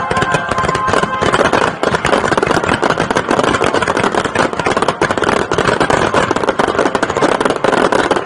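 Fireworks finale barrage: a dense, continuous rapid-fire string of bangs and crackles with no pause.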